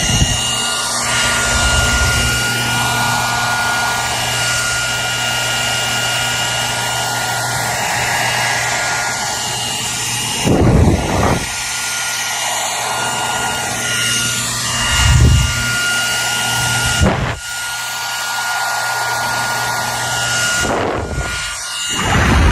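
Hair dryer running steadily: a rush of blown air with a constant high whine from its motor. A few brief low, gusty rumbles come and go, about halfway through and near the end.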